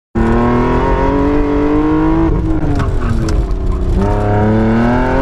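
BMW E30's engine under hard throttle, heard from inside the open car, its pitch climbing steadily. It falls away about two seconds in, then climbs again from about four seconds and drops once more near the end.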